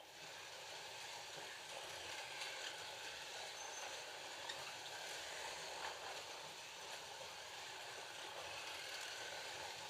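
FLY Classic slot cars with 19K motors running around the track, their small electric motors and tyres making a steady whirring hiss that starts as the race restarts, with a few light clicks.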